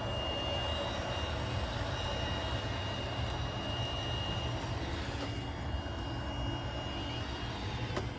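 iRobot Roomba Combo 10 Max robot vacuum running on carpet on high suction: a steady motor hum with a thin, high whine.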